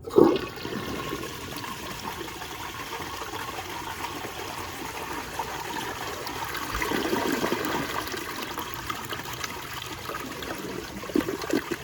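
1916 James B. Clow & Sons Undine antique toilet flushing. Water surges in suddenly and loudly, then rushes steadily through the bowl, swelling again about seven seconds in.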